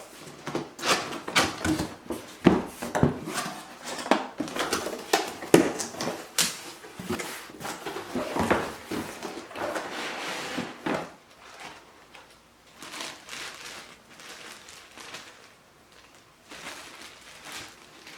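Irregular knocks, clicks and rustling, as of objects being handled, busy for about the first eleven seconds, then sparser and quieter.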